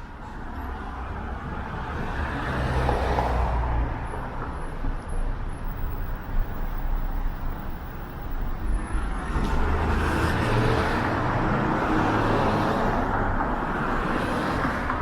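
Busy city-street traffic: cars passing close by, steady tyre noise and engine rumble that swell about two seconds in and again from about ten seconds on.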